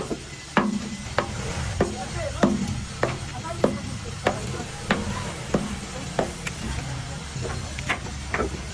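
Steady, regular hammer blows on metal, about one and a half strikes a second, some leaving a short low ring.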